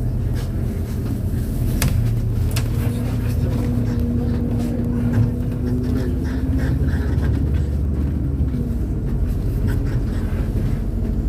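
MAZ-203 city bus heard from inside the cabin while driving: a steady low engine and road rumble with a whine that rises, holds, then falls back after about seven seconds. A couple of sharp clicks or rattles come about two seconds in.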